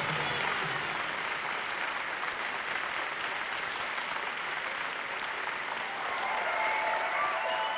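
Audience applauding, a dense steady clatter of many hands clapping, with shouts and whoops rising over it near the end.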